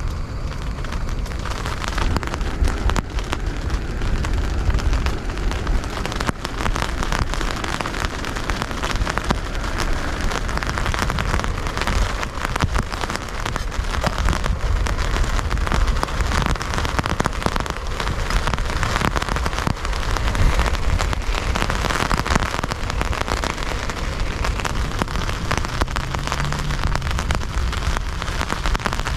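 Heavy rain falling steadily, a dense patter of drops over a low rumble.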